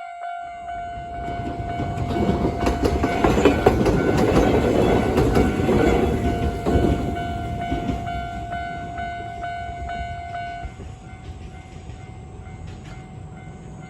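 Iga Railway Iga Line electric train passing through a level crossing, its wheels clicking over the rail joints, loudest a few seconds in, then fading. The crossing's warning bell rings under the train and stops about eleven seconds in.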